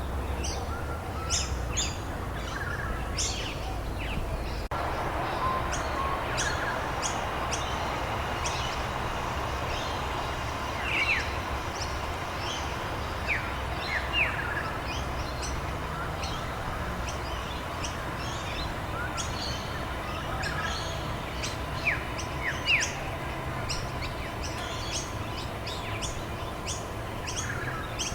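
Several small birds chirping and calling over and over, with quick downward-sliding notes and short high chips, over a steady hiss of rainfall.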